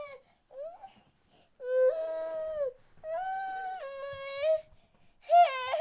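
Crying like an infant's: a short cry and a brief rising whimper, then three longer wailing cries, each holding a level pitch and jumping abruptly from note to note.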